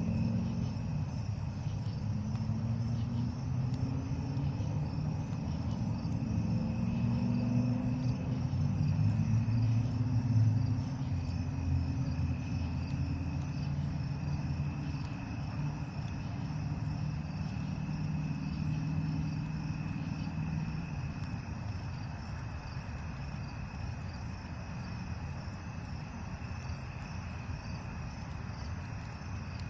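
Crickets chirring steadily, with a passing vehicle's low engine hum that swells to its loudest about ten seconds in and fades away after about twenty seconds.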